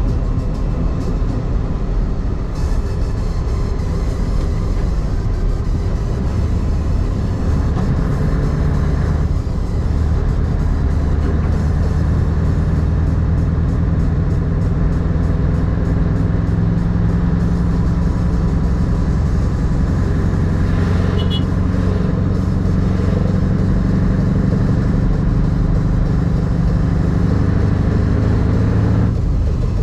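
Truck's diesel engine running steadily on the road, a loud, deep drone that holds an even pitch.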